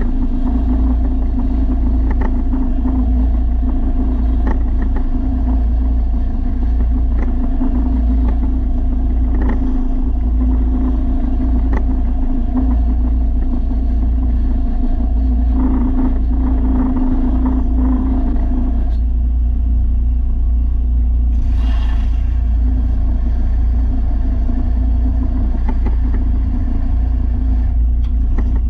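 A motor running steadily with a strong low hum. A mid-pitched hum drops away about two-thirds of the way through, and there is a brief hiss a few seconds later.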